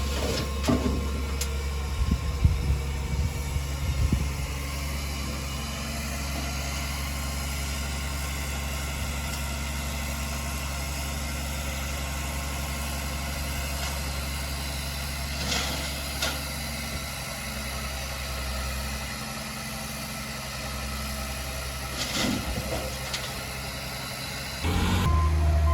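Heavy earthmoving machine's diesel engine running steadily at low revs, with occasional short knocks. Its sound grows louder shortly before the end.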